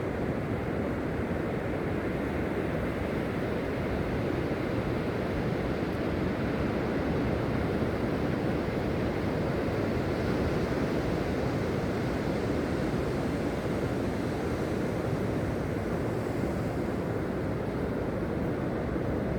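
Steady rush of ocean surf washing onto the beach.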